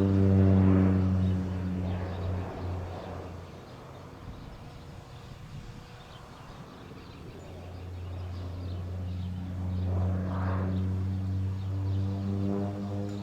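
Crop duster airplane's engine and propeller droning with a steady pitch, fading away over the first few seconds and then growing louder again as the plane comes back around.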